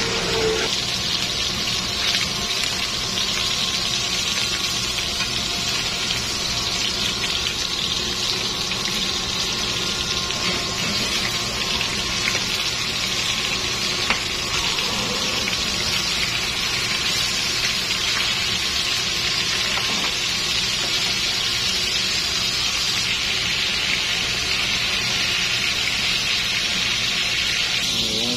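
Tuna steaks sizzling in hot oil in a frying pan: a steady, continuous hiss.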